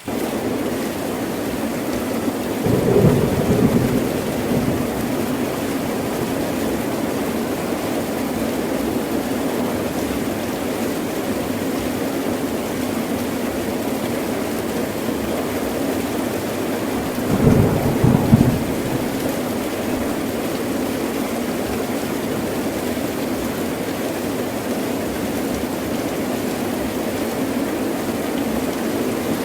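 Heavy rain falling steadily, with two short rumbles of thunder, one about three seconds in and another about seventeen seconds in.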